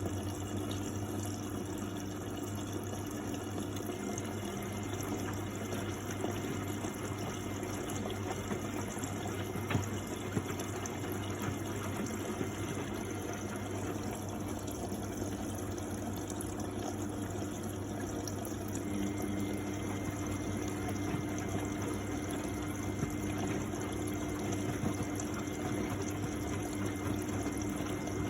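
1999 Miele Novotronic W828 front-loading washing machine running mid-cycle: water rushing through the machine over a steady low pump hum, with a faint high whine that drops out for a few seconds and returns.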